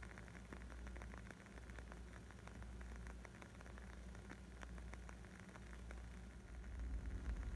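Wood fire crackling: a dense run of small, sharp pops and snaps over a low rumble that swells near the end.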